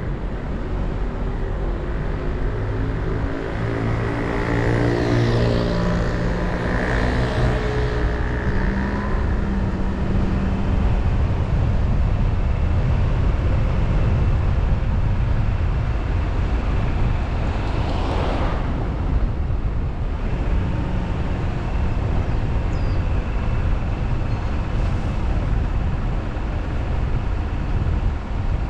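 Car driving: the engine pulls and picks up speed over the first several seconds, then settles into steady low road and tyre rumble. A brief whoosh comes about eighteen seconds in.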